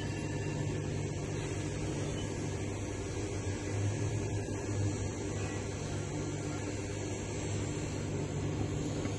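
Steady low electrical hum with a fan-like hiss inside a tower crane cab, the cab's systems running with the power just restored.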